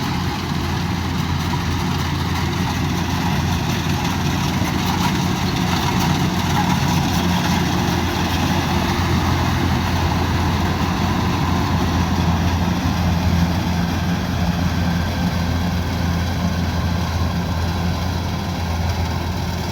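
Combine harvester running steadily, its diesel engine giving an even low hum under a constant wash of machine noise.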